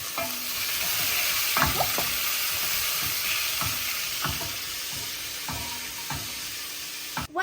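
Sliced onions and tomatoes sizzling steadily in hot olive oil in a pot, with a spoon scraping and knocking against the pot about six times as the vegetables are stirred.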